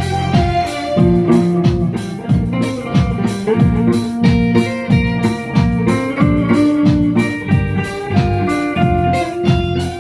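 Band music: a guitar playing over bass and drums with a steady beat, without singing.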